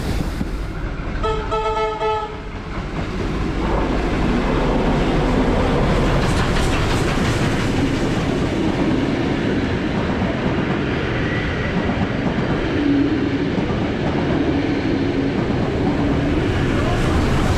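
A train whistle sounds once for about a second near the start. Then trains run past close by: a Tait 'Red Rattler' electric train and steam-hauled carriages, a steady rumble with the clickety-clack of wheels over rail joints.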